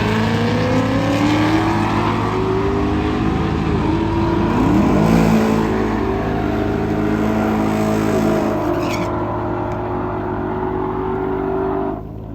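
Drag racing car engine accelerating hard, its pitch climbing, with a break in the pitch about five seconds in, then running on high and steady before the sound cuts off abruptly near the end.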